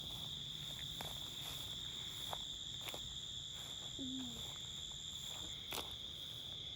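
Night insect chorus: a steady, high-pitched trill, with a second, higher insect band that cuts out about five and a half seconds in. A few faint clicks and light steps sound over it.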